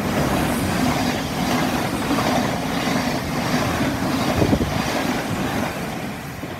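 Thameslink Class 700 electric multiple unit passing close by at speed without stopping: steady wheel-on-rail rumble with a low hum, easing slightly near the end as the rear coaches go by.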